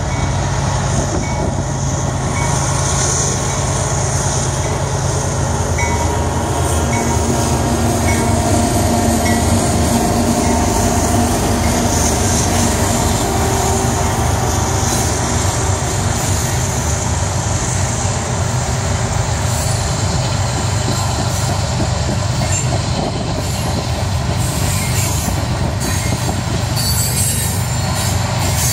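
Union Pacific freight train with four diesel locomotives passing close by, engines running with a low rumble, followed by the coal cars rolling past with steady wheel noise on the rails.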